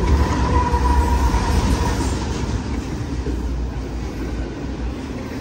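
BNSF intermodal freight train passing close by: a diesel locomotive's deep engine rumble, then double-stack container cars rolling past on the rails, the sound easing off gradually. A faint steady whine fades out about two seconds in.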